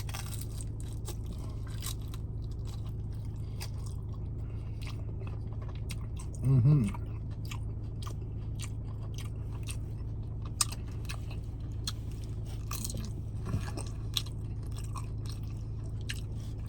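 Close-up chewing of nachos, with crisp tortilla-chip crunches scattered throughout, over a steady low hum.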